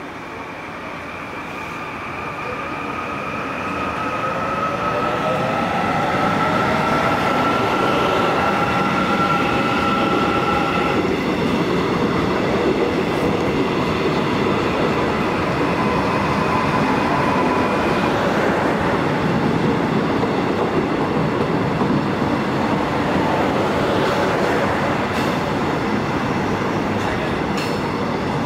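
Korail commuter electric train pulling into a station and running along the platform: a steady rumble of wheels on rails that grows louder over the first several seconds as it draws near, with several electric motor tones that shift upward in pitch during the first half.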